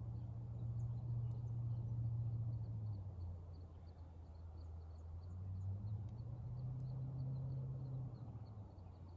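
Outdoor background: a low hum that swells twice, with faint high chirps repeating throughout.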